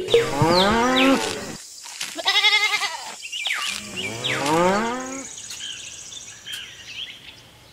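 Cattle mooing: three drawn-out calls in a row, the middle one shorter and wavering.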